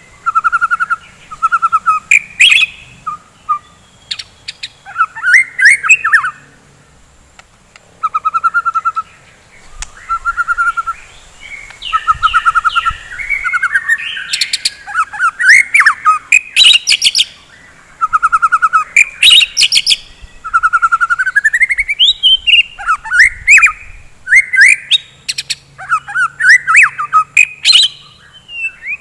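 White-rumped shama (murai batu) singing a loud, varied song: bursts of rapid trilled notes, rising whistled sweeps and sharp high clicking notes, phrase after phrase with short pauses. It is singing constantly, the 'gacor' form keepers prize.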